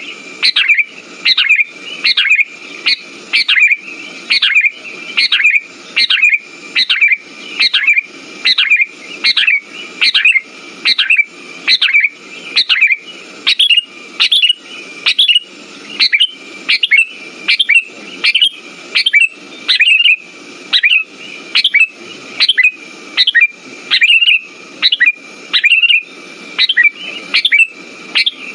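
Sooty-headed bulbul calls repeated at an even pace of about one and a half short, downward-sweeping notes a second, over a steady high tone, as a lure call to set a silent bulbul singing.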